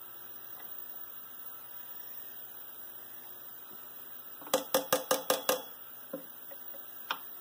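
Light taps on a steel punch set against a bent zinc-alloy model locomotive frame, straightening it. After a few quiet seconds comes a quick run of about six taps, then two single taps.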